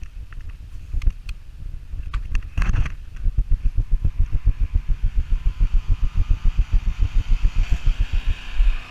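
Predator gas engine of a pressure-washing rig running steadily, with a low rhythmic pulsing at about six beats a second from about three seconds in. A few sharp clicks come early, and a hiss builds near the end.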